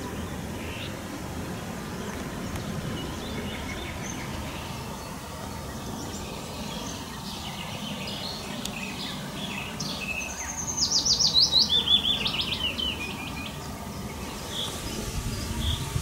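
Songbirds singing, with one loud song about ten seconds in: a fast run of notes dropping in pitch over about two seconds, ending in a short flourish. A steady low rumble lies underneath.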